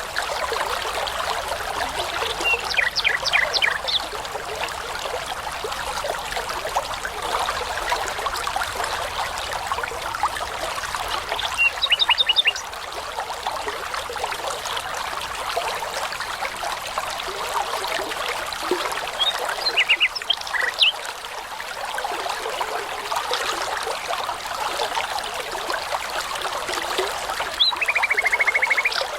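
A babbling brook runs steadily. A songbird sings four short phrases of quick repeated notes, spaced several seconds apart; the last, near the end, is a fast trill.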